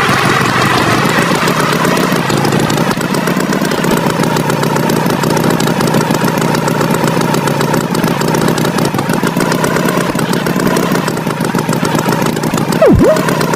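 Tractor engine sound effect running steadily, with a quick swoop falling and rising again in pitch near the end.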